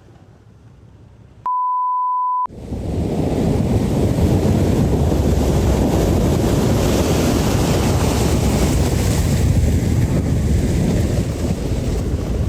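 A one-second steady beep, like a censor bleep, about a second and a half in, then loud storm wind buffeting the microphone over crashing waves and surf.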